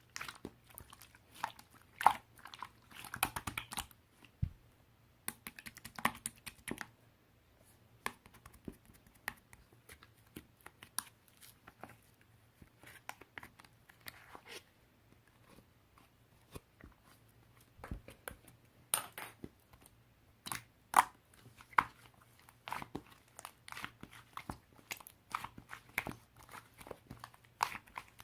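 Chewing and crunching: irregular crunchy bites with small crackles, coming in clusters with short pauses between them.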